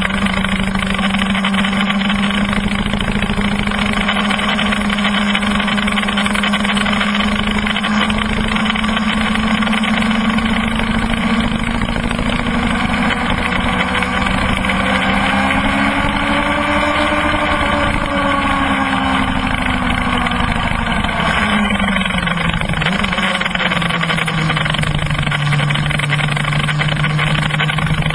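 Kawasaki ZX-12R's inline-four engine running at track speed, heard from an on-board camera with wind rush over it. The engine note holds steady, climbs a little around the middle, drops about three quarters of the way through and climbs again near the end.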